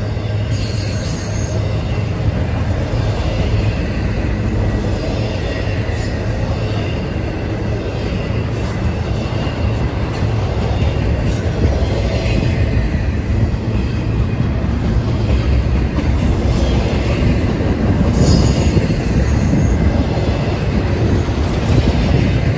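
Double-stack intermodal well cars rolling past: a steady heavy rumble of steel wheels on rail, with wheel squeal coming and going, sharpest about a second in and again around eighteen seconds in.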